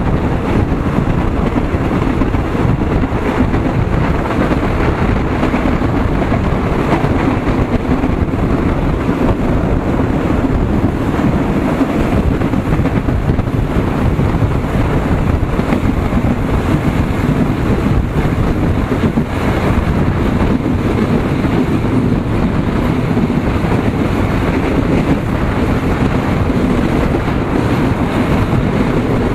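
Passenger train running steadily along the track, a continuous rumble mixed with heavy wind noise on the microphone held out of the carriage side.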